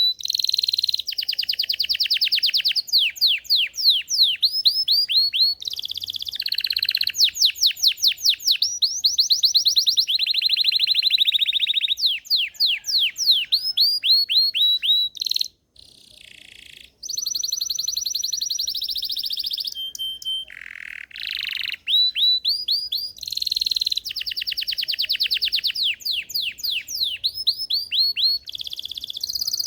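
Belgian canary singing a long, continuous song of rapid trills and repeated high notes, phrase after phrase, with a short break about halfway through.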